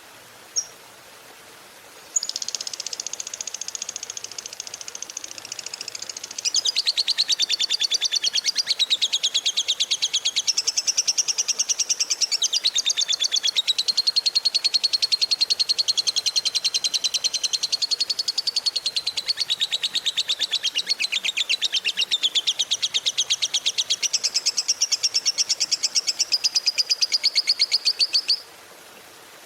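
Lovebird giving its long, rapid chattering trill (the 'ngekek panjang' of a fighter lovebird): after a short chirp, a fast unbroken run of high notes starts about two seconds in, grows louder around six seconds, and goes on for some twenty-five seconds before stopping suddenly near the end.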